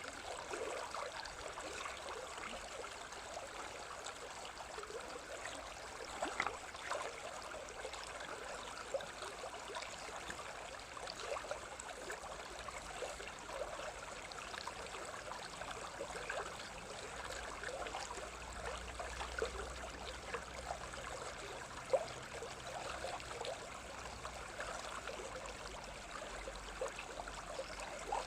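Running water of a stream, trickling and babbling steadily.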